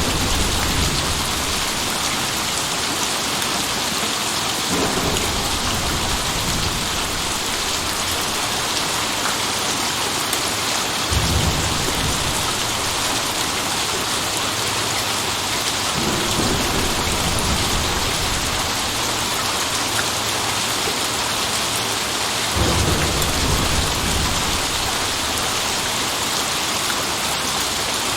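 Steady heavy rain with thunder rumbling several times, the strongest peals about 11 and 22 seconds in.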